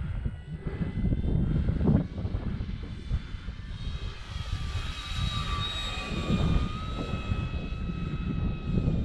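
Electric motor and propeller of a Dynam Hawker Hurricane V2 RC warbird whining in flight. The whine grows louder and then dips slightly in pitch as the plane passes, about halfway through. Heavy wind buffets the microphone throughout.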